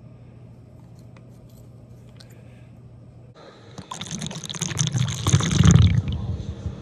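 Liquid being poured and splashing as it fills a container, starting about four seconds in and lasting about two seconds, loudest just before it stops.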